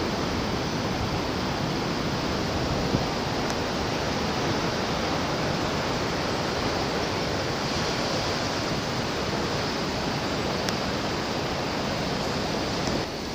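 Steady rushing noise of ocean surf heard from above the beach, with no breaks between waves. A small click about three seconds in.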